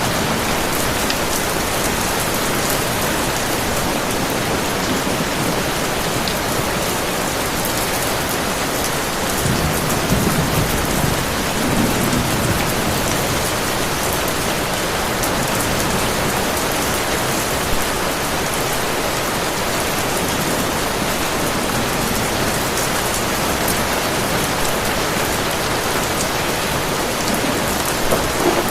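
Heavy rain pouring steadily, with low thunder rumbling twice: once about a third of the way in, and again at the very end.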